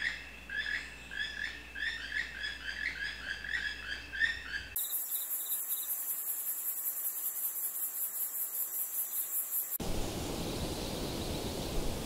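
A small bird's rapid series of short, repeated chirps for the first few seconds, then a high, evenly pulsing insect trill like a cricket or cicada, which cuts off abruptly about ten seconds in and gives way to a steady rushing noise.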